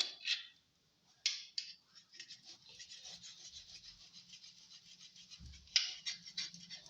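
Rapid rubbing and scraping strokes by hand on the subwoofer box, a few strokes a second, with a louder scrape about a second in and another near the end.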